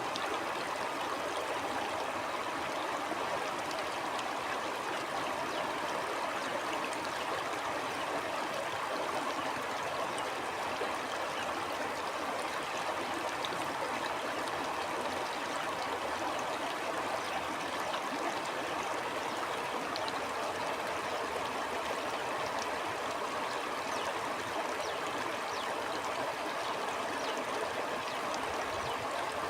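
Stream water flowing and gurgling steadily over rocks, an even rushing babble.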